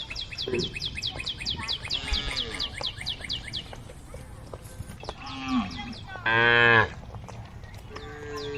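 Cows mooing: a short low call about five seconds in, then one loud, full moo a little after six seconds, and another call beginning near the end. A rapid run of high, thin chirps, several a second, fills the first three seconds or so.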